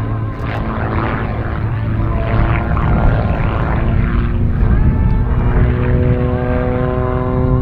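Propeller and piston engine of a Rebel 300 aerobatic aircraft running at power through its display, a steady drone with small shifts in pitch.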